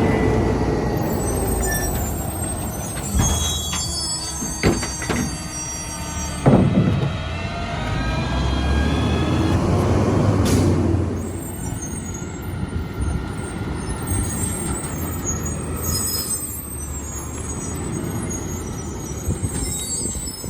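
Mack MRU garbage truck with a McNeilus rear-load body, its diesel engine running steadily, with several sharp knocks and clanks a few seconds in and a short sharp hiss about halfway through.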